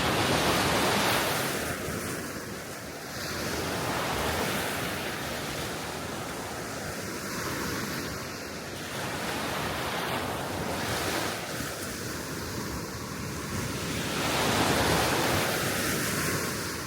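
Small waves of a calm Baltic Sea washing onto the shore, the surf swelling and fading every few seconds, with a steady wind behind it.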